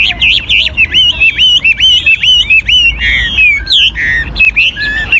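Mature wild-caught Chinese hwamei singing loudly, a fast unbroken run of whistled notes that sweep up and down and keep changing pattern.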